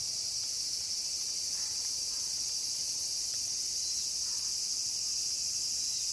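Night insects, crickets, chirring in a steady high-pitched chorus.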